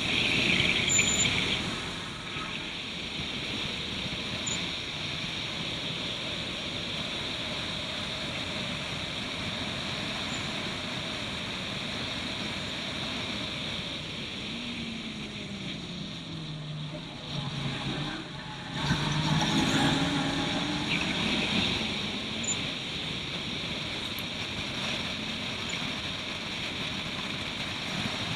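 Turbocharged Suzuki Swift race car under way, its engine running hard over heavy wind and road noise. Past the halfway mark the revs fall away, cut out briefly, then pick up again loudly, as in braking for a corner and powering out.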